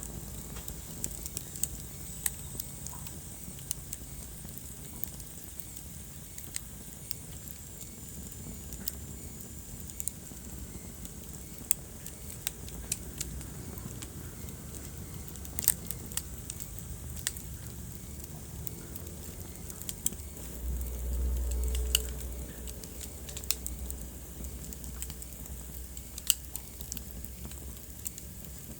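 Wood fire crackling in a fireplace: scattered sharp pops and snaps over a low steady rumble. Roughly three quarters of the way through, the low rumble swells louder for about two seconds.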